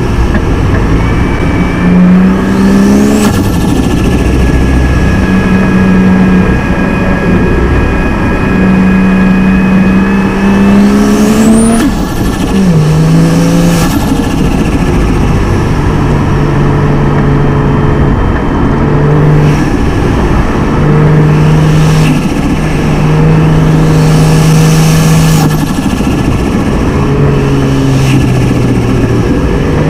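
A straight-six car engine driving hard up a mountain road, the revs climbing under acceleration and dropping sharply at gear changes about 3 and 12 seconds in, then holding steadier with brief dips later. A faint high rising whine comes in with the pulls.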